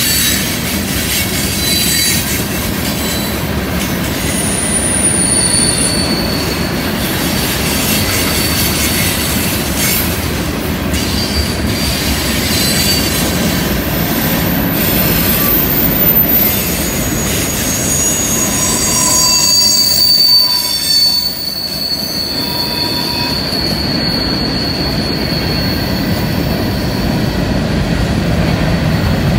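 Freight cars rolling past on a curve: a steady rumble of steel wheels on rail, with high-pitched wheel squeal that comes and goes, strongest about twenty seconds in.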